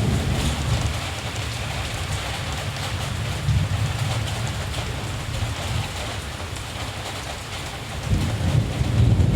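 Steady rain hissing over a low rumble of distant thunder. The rumble eases through the middle and swells again near the end.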